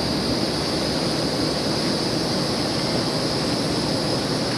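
Steady outdoor background noise: an even rush with a constant high-pitched hiss above it, unchanging throughout.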